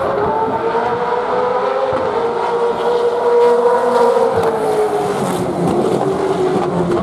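Gen3 Supercars V8 race car engine running hard at high revs: one steady engine note whose pitch climbs a little, then slowly falls over the last few seconds.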